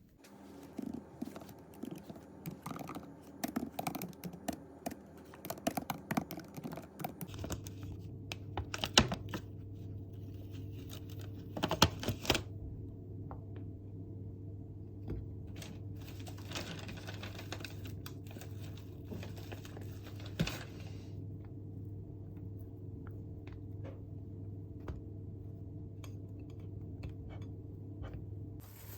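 Typing on a computer keyboard: irregular key clicks, densest in the first few seconds and sparser later. A steady low hum comes in about seven seconds in.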